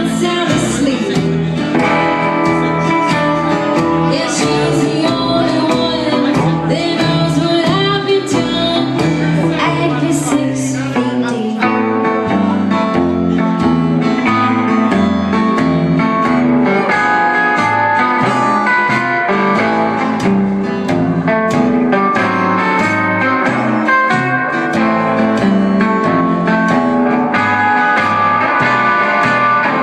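Live band playing a country-blues song, with guitars prominent over a steady beat.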